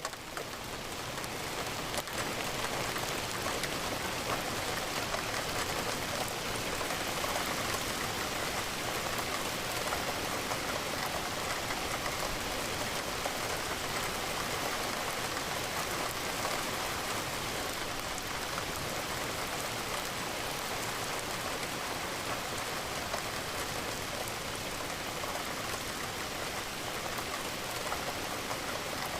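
Steady rain pattering on a window, a dense even hiss. It swells back up over the first couple of seconds after a brief dip.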